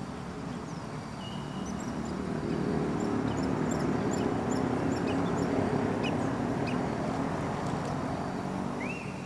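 Small birds chirping with a few whistled notes, one rising near the end, over a steady low rumble that swells through the middle.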